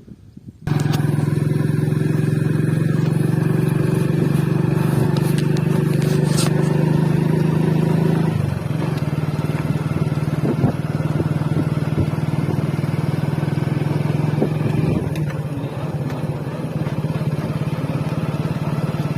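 A vehicle engine running steadily on the move, starting abruptly just under a second in; its note changes about eight seconds in and again around fifteen seconds.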